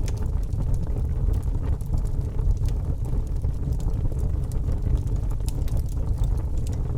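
Campfire crackling, with frequent small sharp pops, over a steady low rumble of wind on the microphone.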